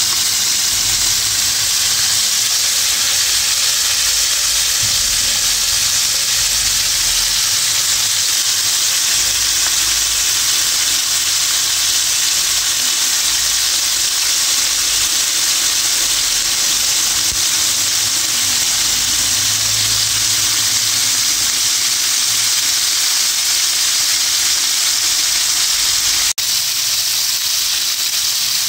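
Flour-coated chicken wings frying in hot oil in a pan: a steady sizzle that briefly cuts out once near the end.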